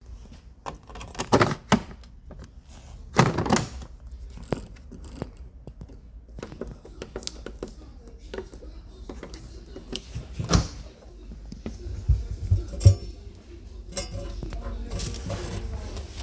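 Scattered knocks and thumps over a steady low rumble, with faint voices in the background.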